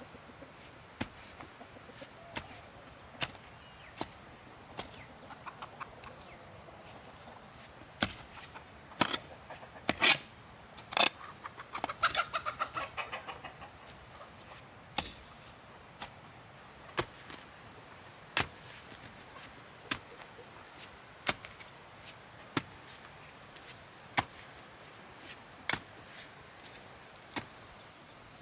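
Sharp knocks of a hand tool striking, one every second or so and irregular, the loudest pair about ten seconds in. A chicken clucks briefly in the middle.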